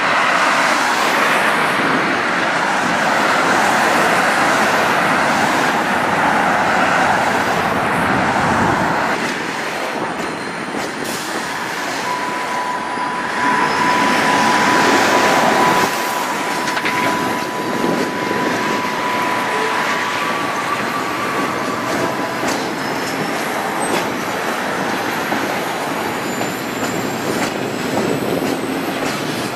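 Freight train cars rolling through a rail yard, wheels rumbling on the track. A single steady wheel squeal starts about twelve seconds in and lasts several seconds. Fainter high squeals follow near the end.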